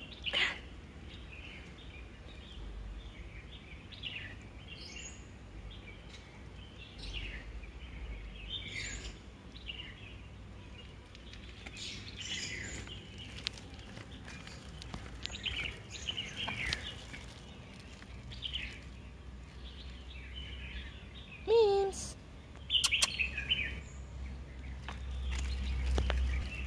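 Small birds chirping in short repeated calls over a low background rumble. A short sliding pitched call rises out of it about three-quarters of the way through, the loudest sound.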